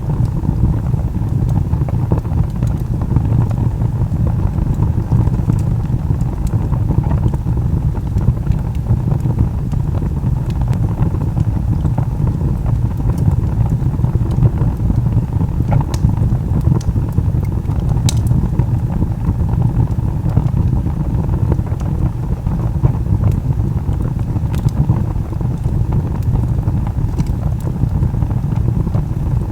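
Wood fire burning with a steady low roar of flames and a few scattered sharp crackles and pops from the burning log.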